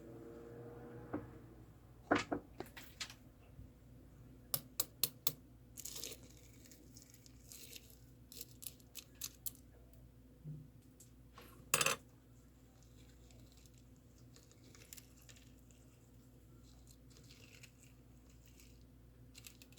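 Sharp clicks and taps of small objects being handled, some in quick runs of three or four, with one louder crackle a little past the middle; the second half is quieter with only occasional faint ticks.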